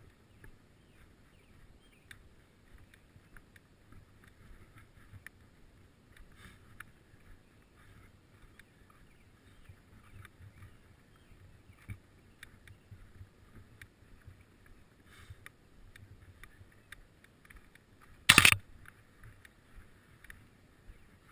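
A bicycle being ridden: faint scattered ticking and rattling over a low rumble. One loud, sharp knock comes about 18 seconds in.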